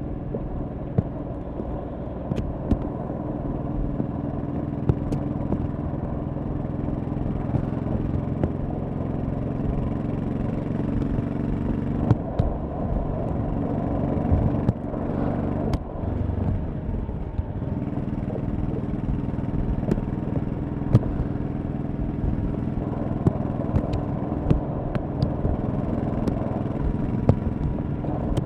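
1100cc V-twin motorcycle engine running under way, a steady throbbing engine note. About halfway through the note dips and shifts in pitch for a second or two before settling back. Sharp clicks are scattered throughout.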